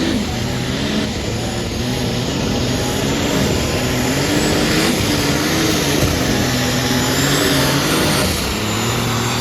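Farm tractor engine running hard under load, pulling a weight sled down the track. Its pitch wavers up and down.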